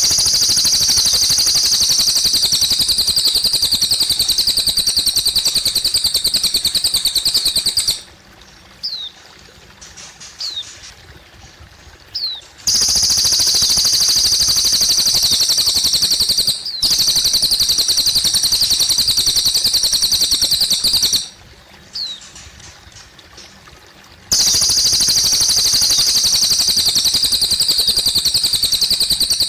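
A cililin bird singing a loud, rapid high trill in long runs of about eight seconds. It breaks off twice, and short single chirps sound in the pauses. Trickling water runs underneath.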